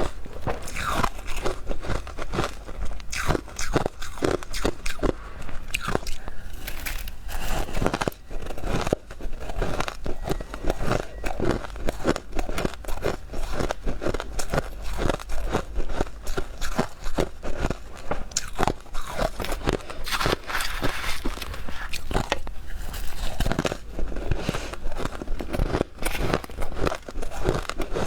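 Close-miked biting and chewing of powdery freezer frost, a dense run of irregular crisp crunches, several a second.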